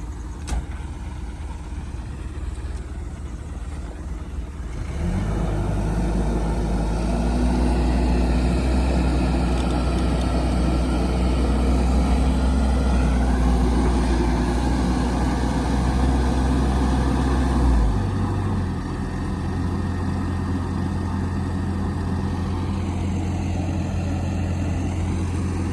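Heavy diesel engine running steadily. It grows much louder about five seconds in, holds there, then drops back to a lower steady run after about eighteen seconds.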